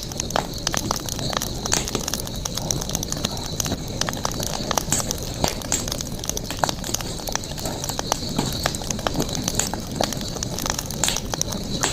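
Campfire burning, its wood crackling and popping irregularly several times a second, over a steady high-pitched background tone.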